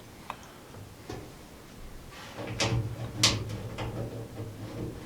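A few light clicks and knocks, the sharpest about three seconds in, over a low hum that comes in about halfway.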